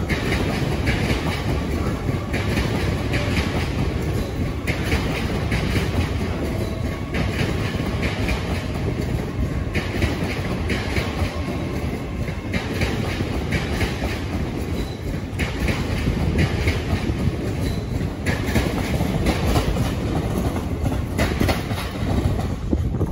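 LNER Azuma train passing close by: a steady rumble of wheels on the track with a rhythmic clickety-clack, a group of clicks about every second.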